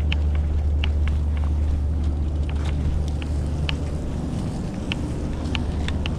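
Large diesel engine idling with a steady low rumble, with scattered short high clicks over it.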